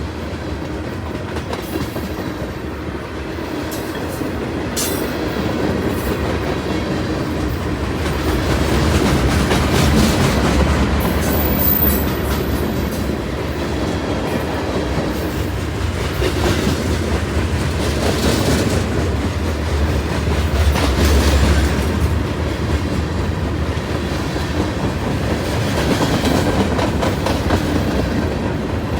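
A train's cars rolling past, wheels clattering steadily over the track joints, with no break in the sound.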